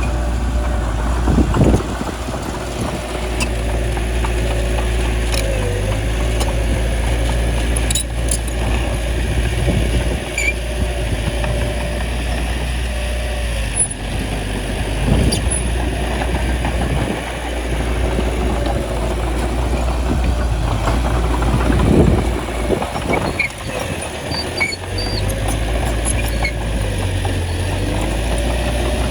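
Small bulldozer's diesel engine running steadily as it works, swelling louder briefly a few times.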